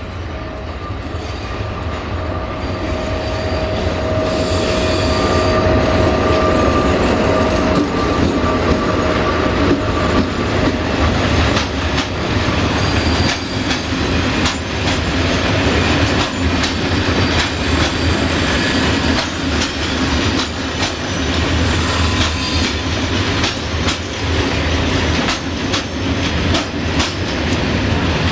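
MÁV M62 diesel locomotive and its freight train of loaded bogie hopper wagons passing close by, growing louder over the first several seconds as the train draws level. A steady wheel squeal sounds at first, then the wagon wheels clack over the rail joints under a constant rumble.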